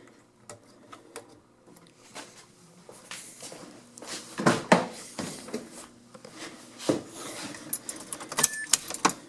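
Scattered clicks and knocks of hands working at a car's fuse box and controls, with the loudest knocks a little past halfway, over a faint steady hum.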